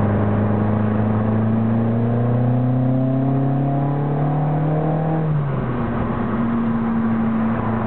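Peugeot 205 MI16's 1.9-litre 16-valve four-cylinder engine heard from inside the cabin, pulling hard with its pitch rising steadily under acceleration. About five and a half seconds in the pitch drops sharply at an upshift, then the engine runs on steadily at lower revs.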